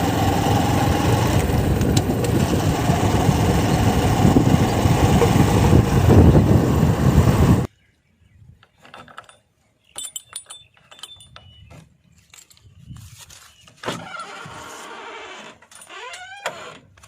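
Diesel engine of heavy farm or earthmoving machinery running loud and close, cutting off abruptly about eight seconds in. After that, scattered clicks and knocks over a much quieter background.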